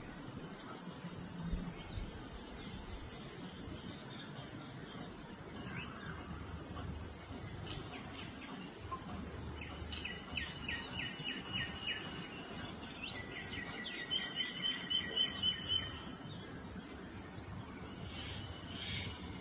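Sunbird calling: a steady run of short, high, upward-flicked chirps about two a second, broken about halfway through and again a little later by fast rattling trills, the loudest part.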